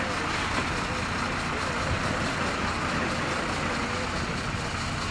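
Heavy diesel engine running steadily at low revs, a continuous rumble with a low hum under it.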